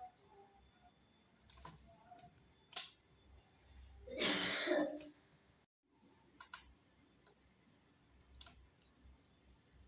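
Crickets trilling steadily in a high, fast pulse, with scattered faint clicks. About four seconds in, one loud harsh sound lasts under a second, and the trilling cuts out briefly soon after.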